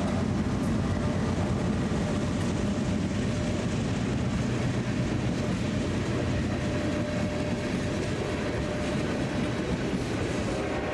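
Freight train rolling by, a steady rumble of wheels and cars on the rails.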